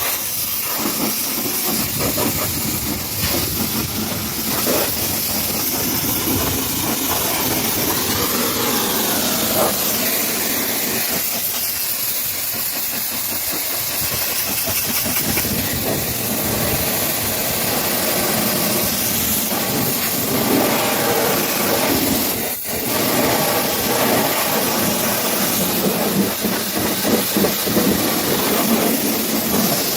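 High-pressure washer spraying water in a steady hiss, with a very brief break about three quarters of the way through.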